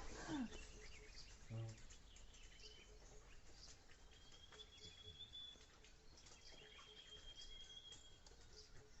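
Near silence: faint outdoor ambience with distant bird chirps and a thin, high, steady whistle heard twice in the middle.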